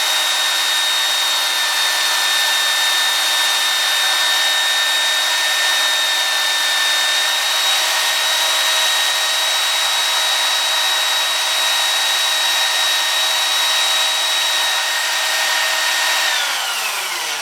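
Belt sander running steadily with a hiss, then switched off about sixteen seconds in, its pitch falling as the motor spins down.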